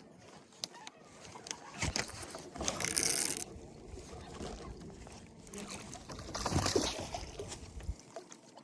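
Splashing water and knocking handling noise in a kayak as a small northern pike is brought in, with a short hissing splash about three seconds in and another louder splash near seven seconds.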